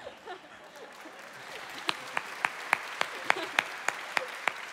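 Audience applauding, swelling about a second in, with one pair of hands clapping close to the microphone in sharp, evenly spaced claps, about three a second.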